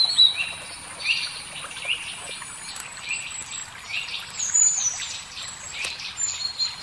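Birds chirping: short, high calls repeated every half second to a second, over a faint background hiss.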